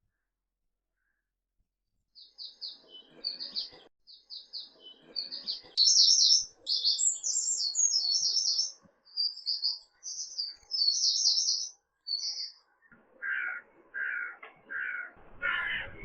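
Birdsong: after about two seconds of silence, a small songbird sings quick, high chirps and trills for about ten seconds. Near the end, a larger bird gives a run of lower, repeated calls about two a second.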